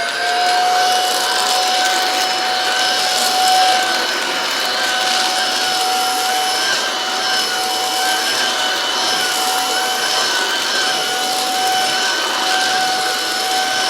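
Aspiron cordless stick vacuum's 250 W brushless motor running at a steady high-pitched whine over the rush of air being sucked through it.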